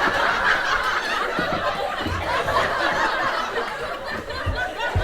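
Live audience laughing steadily, many voices together.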